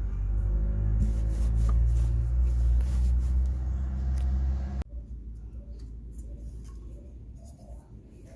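A steady low motor hum that cuts off abruptly about five seconds in, followed by quieter rubbing and handling noises.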